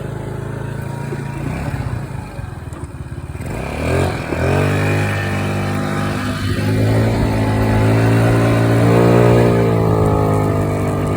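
Moped engine running: an even low note for the first few seconds, then revving up about four seconds in and holding a steady higher speed.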